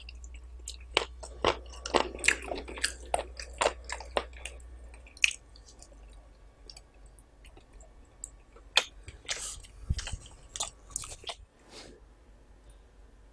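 A person chewing and biting food close to the microphone: wet mouth clicks and crunches, dense for the first few seconds, sparser in the middle, then a second flurry a few seconds before the end.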